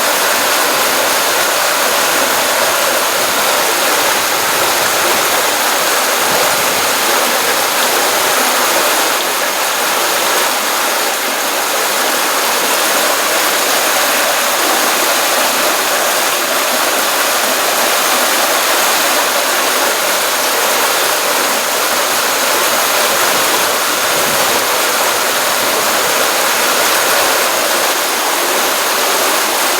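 Stream water running into a pond, a steady, unbroken rush with a hissy, bright sound and little low rumble.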